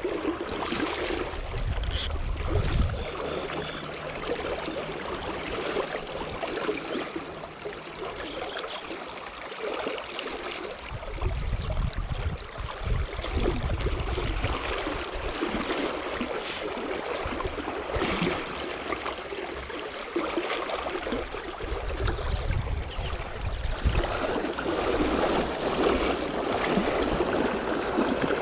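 River water flowing in a steady rush, with occasional low rumbles and a couple of brief clicks.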